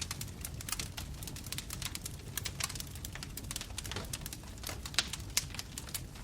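Bonfire crackling and popping: irregular sharp snaps of burning wood over a low, steady rumble of flames, with two louder pops about five seconds in.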